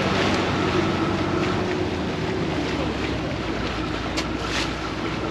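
Vaporetto water bus engine running steadily with a low hum, heard from aboard, with wash and wind noise. There are two short hisses about four seconds in.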